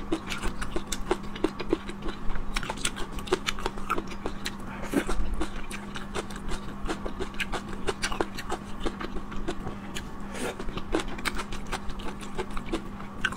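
Close-miked chewing of chewy stir-fried sea snail strips: a steady run of wet mouth clicks and smacks, over a faint steady low hum.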